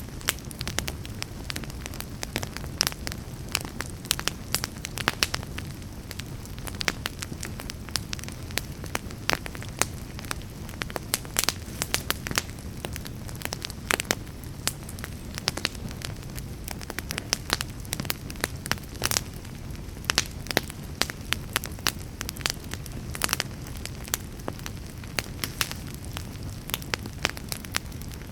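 Wood fire burning in a fireplace: a steady low rustle of flames with frequent irregular sharp crackles and pops.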